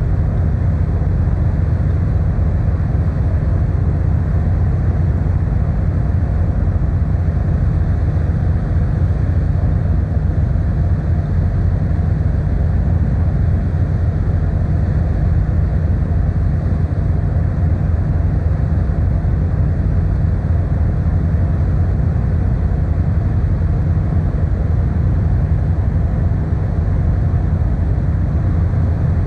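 Steady low drone of the car ferry Kuniga's engines while under way, even and unchanging throughout.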